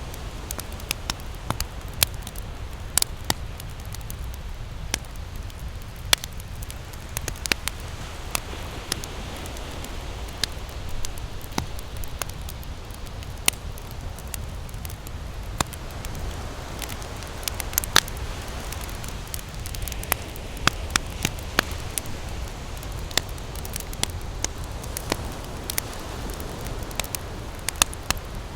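Wood campfire crackling, with irregular sharp pops and snaps, over a steady low wash of ocean surf.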